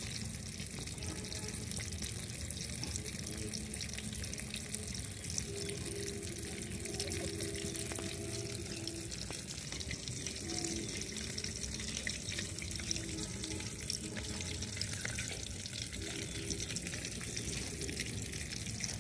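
Chicken pieces in a rice-flour and wheat-flour coating deep-frying in hot oil: a steady sizzle.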